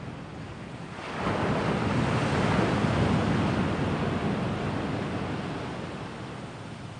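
Sea waves breaking on the shore: a wave crashes about a second in, then washes up and slowly fades away.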